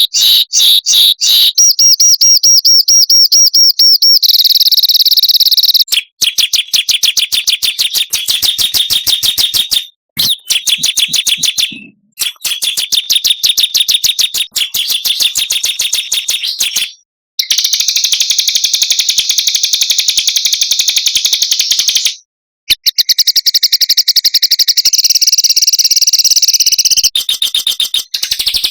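Small songbirds singing dense, very fast trills and rapid chirp series, in runs of a few seconds with brief breaks between them. It is a masteran recording of rapid trills and sharp 'shot' phrases used to train cage songbirds.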